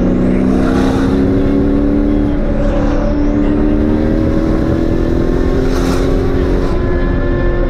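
1998 Chevrolet Camaro SS's V8 engine running under way, its pitch climbing slowly and steadily as the car gathers speed.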